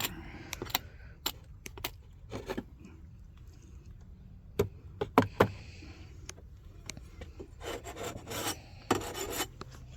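Wooden beehive frames and boxes being handled: rubbing and scraping of wood with scattered light knocks and clicks.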